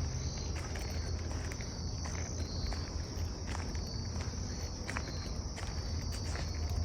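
A steady, high-pitched chorus of chirping insects, with a few soft footsteps under it.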